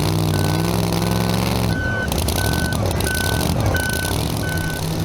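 A backup alarm beeping steadily, about three short beeps every two seconds, over a large engine running at a steady idle that fades out about two seconds in.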